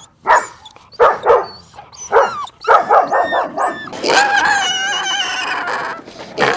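A dog barking: single short barks spaced about a second apart, then a quick run of four barks about three seconds in, followed by about two seconds of continuous, wavering higher-pitched whining.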